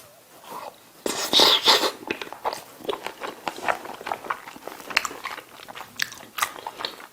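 Close-miked chewing and biting of food in a person's mouth: many small, irregular wet clicks and crunches, with a short hissy burst about a second in.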